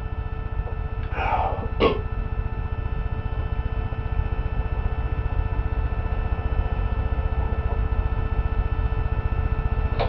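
A man clears his throat once, briefly, about a second in. A steady low hum and rumble runs underneath.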